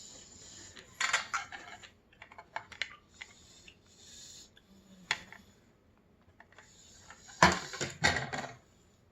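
Close-miked eating: crisp crunching and chewing of crackers with oysters, with wet mouth clicks between bites. Loud crunch bursts come about a second in and again near the end.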